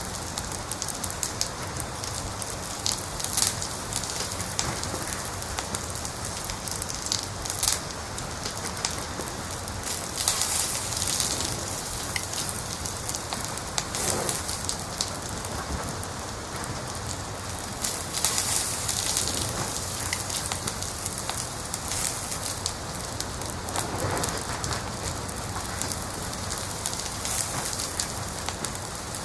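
Wood fire crackling, with a continuous hiss and frequent sharp pops and snaps, which come in a few louder clusters of popping.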